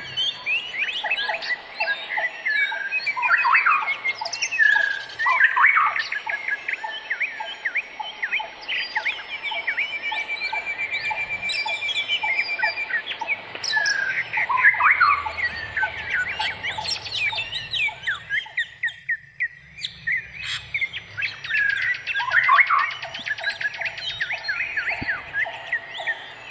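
Several birds chirping and calling at once in a dense, overlapping chorus. There is a rapid trill about ten seconds in, and a run of evenly repeated lower notes near the end.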